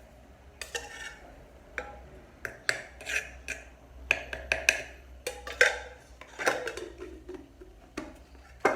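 A spoon clinking and tapping against a bowl in an irregular clatter of kitchen utensils while ingredients for a chocolate filling are measured and mixed.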